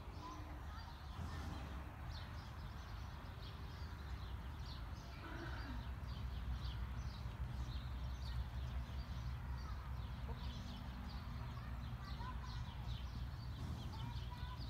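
Birds chirping repeatedly, many short high calls overlapping, over a steady low rumble.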